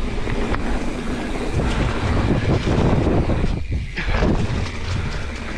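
Wind buffeting the microphone of a bike riding fast down a dirt jump trail, with tyre and frame rattle underneath. The noise dips briefly about three and a half seconds in.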